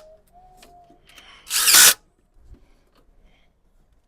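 Handheld power drill-driver spinning a bolt in during engine reassembly, in one short burst of about half a second roughly a second and a half in, with a faint whine before it.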